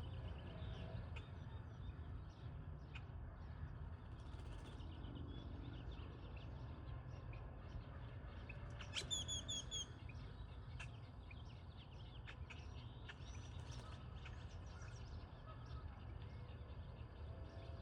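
A flock of blackbirds calling in a tree, with many overlapping chirps and a louder quick run of ringing notes about halfway through, over a steady low rumble.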